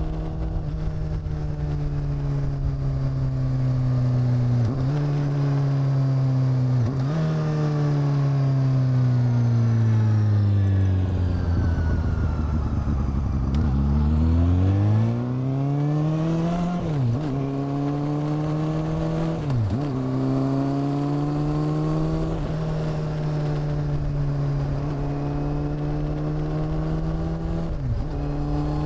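Honda CB400 Super Four's inline-four engine and exhaust under way. It holds a steady note with a few brief dips at gear changes, falls slowly in pitch as the bike slows, then rises quickly as it pulls away, and settles back to a steady cruise.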